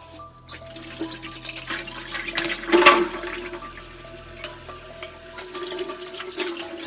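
Water running from a tap into a sink, rising and swelling about three seconds in, with a few sharp clicks and knocks mixed in.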